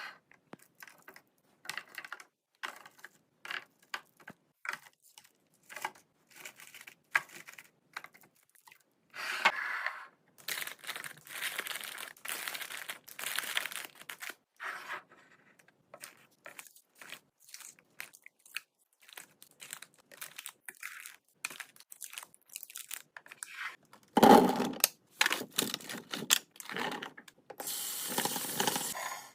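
Food packaging being handled: plastic rustling, crinkling and tearing among light clicks and knocks, with one louder knock about 24 seconds in.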